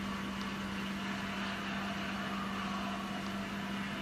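A steady low hum over an even background hiss, like a running fan or appliance.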